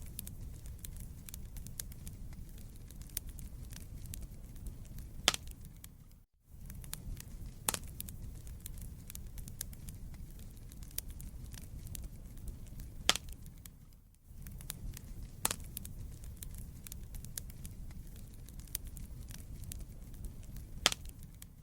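Wood fire burning in a fireplace: a steady low rumble of flames with sharp, irregular crackles and pops from the burning logs. The sound drops out briefly twice, about every eight seconds.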